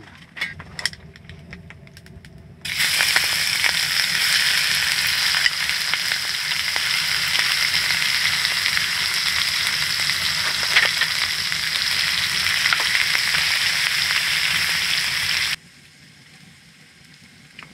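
Kimchi frying in rendered pork belly fat in a pan: a loud steady sizzle with scattered crackles, starting suddenly a few seconds in and cutting off shortly before the end. A few light clicks come before it.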